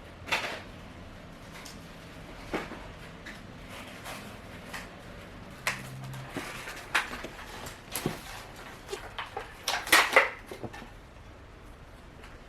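Scattered light knocks and clicks at irregular intervals, with a quick cluster of them about ten seconds in.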